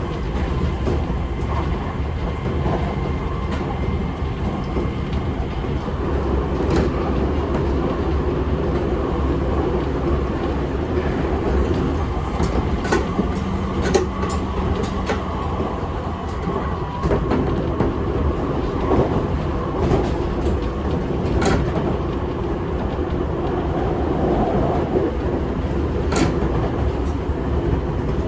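Seibu 6000 series electric train running at speed: a steady rolling rumble of wheels on rail with scattered sharp clicks over rail joints.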